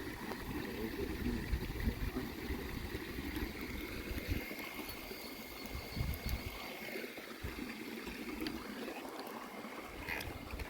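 Water trickling and lapping around a small fishing boat, with low rumbling on the microphone and a faint steady high tone for a few seconds midway.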